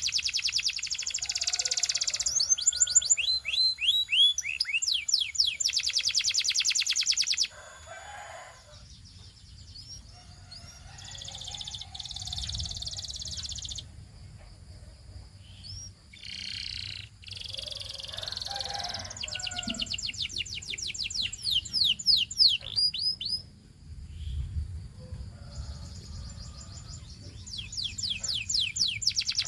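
Domestic canary singing: long, fast trills of repeated high notes mixed with quick sweeping whistles, broken by short pauses.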